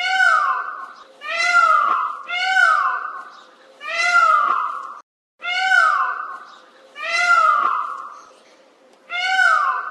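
A bird giving loud, cat-like mewing calls, about seven in a row, each sliding down in pitch and repeating every second or so.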